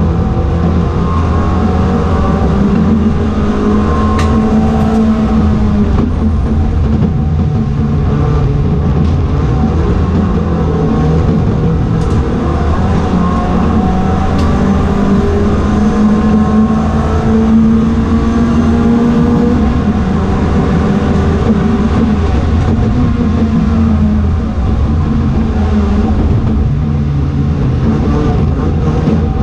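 Ford Fiesta race car engine running hard, its pitch rising and falling again and again as it revs up and changes gear.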